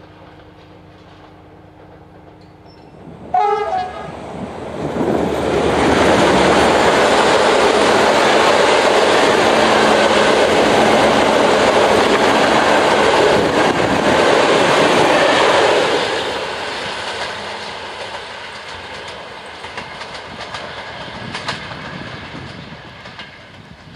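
Passenger train with double-deck coaches passing close at speed: a short horn blast about three seconds in, then loud wheel-on-rail running noise for about ten seconds that slowly fades as it goes by.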